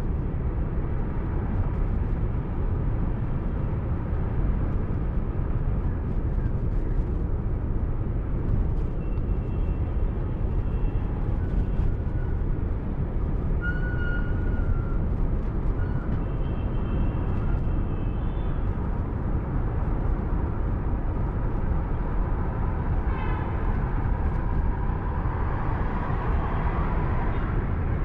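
Steady road and engine noise of a car driving along a highway. A few short horn toots from other traffic sound about halfway through.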